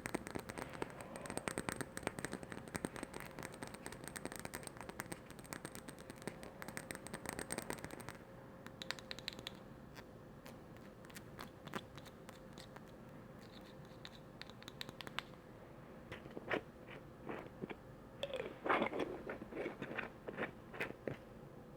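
Close-miked ASMR handling sounds: a dense, fine crackling and scratching for about eight seconds, then scattered light clicks and taps, a few louder ones near the end.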